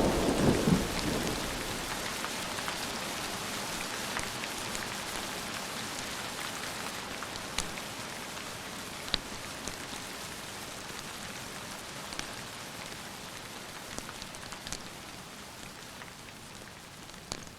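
Steady rain hissing, with the last of a low thunder rumble dying away in the first second or so. Scattered sharp ticks sound over the rain, and the whole slowly grows quieter.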